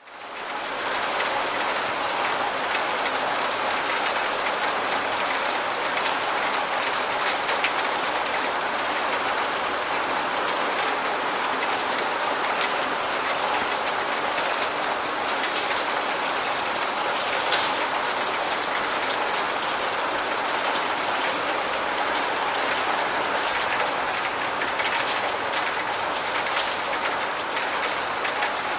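Steady heavy rain: a dense, even hiss of rainfall with fine scattered drop ticks, fading in from a brief dropout at the very start.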